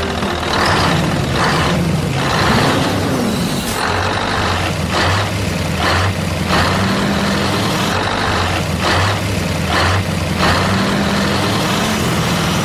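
Vehicle engine running steadily with a low hum, with short hissing bursts recurring about once a second.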